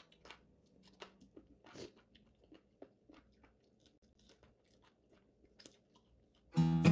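Close-up chewing of crispy deep-fried chicken feet: scattered small crunches and mouth clicks. Near the end, acoustic guitar music comes in loudly.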